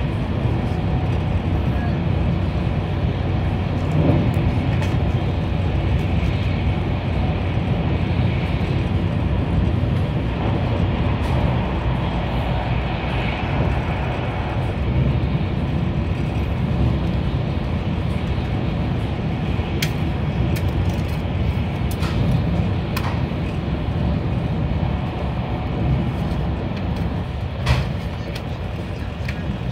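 Steady running noise of a high-speed train at about 200 km/h, heard from inside the passenger carriage: an even low rumble with a hiss of wheels and air. A few sharp clicks come in the last third.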